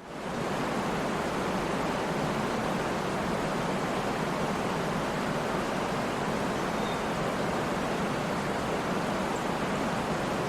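Waterfall: a steady, even rush of falling water that fades in at the very start, with a couple of faint short high chirps late on.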